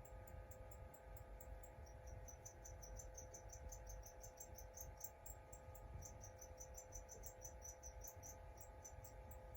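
Faint, rapid, high-pitched chirping, insect-like and at many pulses a second, over a quiet steady hum. It is densest from about two seconds in until near the end.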